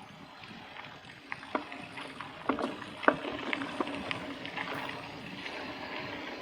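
Mountain bike rattling over a rough dirt track: irregular knocks and clatters over a steady rush of tyre and wind noise, which gets louder after about a second.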